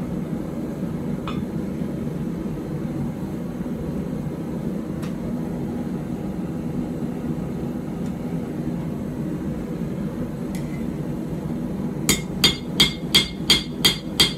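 A steady low hum, then from about twelve seconds in, a hand hammer striking hot steel on an anvil. The blows are quick, ringing and even, about four a second, drawing out the bevels of a puukko knife blade with a dog-leg hammer.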